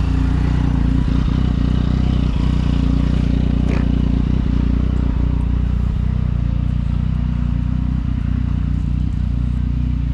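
Yamaha XSR900 motorcycle's inline-three engine running at a steady, even pitch. There is a brief rising whine about four seconds in.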